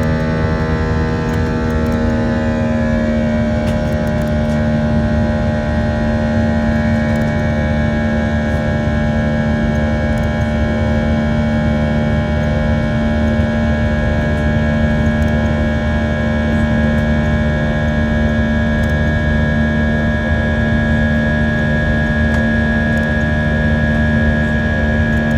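Airbus A320 jet engines heard from inside the passenger cabin, a loud steady drone with a low rumble and several held whining tones. The tones shift slightly in pitch about two to three seconds in, then stay level, as at a power setting during the climb.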